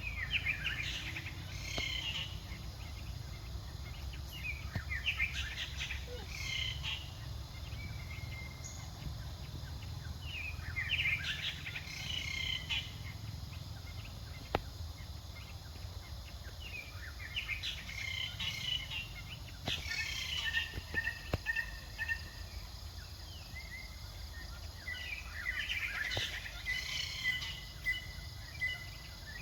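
Birds chirping in bursts every few seconds, some calls holding a steady whistled note, over a steady low rumble.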